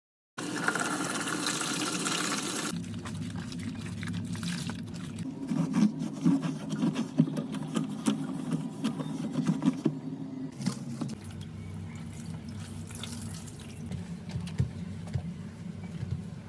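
Water running and splashing during washing-machine cleaning, with a steady low hum and scattered clicks and knocks. The sound changes abruptly about two and a half seconds in and again about ten seconds in.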